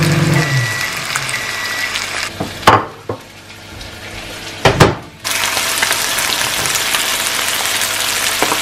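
Food frying in a pan with a steady sizzling hiss. Around the middle the sizzle drops away for a couple of seconds, with a few knocks of utensils or cookware, then it resumes.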